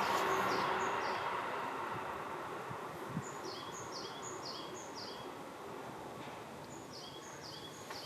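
A bird giving short, high call notes that fall in pitch, repeated about twice a second in two runs, over a steady background hiss that slowly fades.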